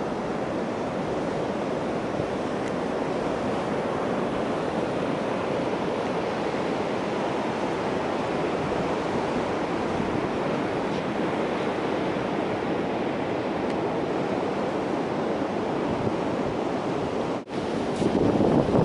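Ocean surf, a steady rush of breaking waves, with wind buffeting the microphone. The sound drops out briefly about seventeen seconds in, then comes back a little louder.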